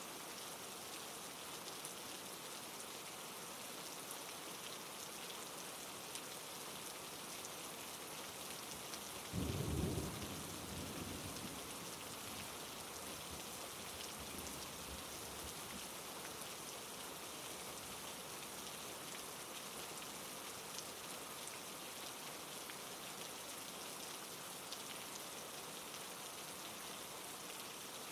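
Steady rain. About nine seconds in, one short rumble of thunder rises sharply and fades over a couple of seconds.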